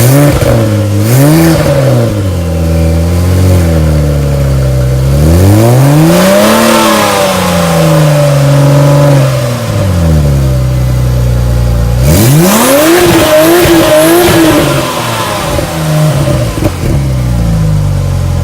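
Porsche 911 Turbo (997.1) twin-turbo flat-six on its stock exhaust, heard from inside the cabin, running up through the mid-range and falling back several times. There are short climbs in the first few seconds, a longer one about six seconds in, and a sharp climb about twelve seconds in that is held briefly before dropping away. It is fairly quiet for the car, as expected with the stock exhaust.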